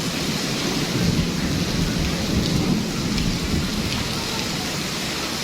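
Heavy storm rain pouring, with a steady low rumble under the hiss of the rain.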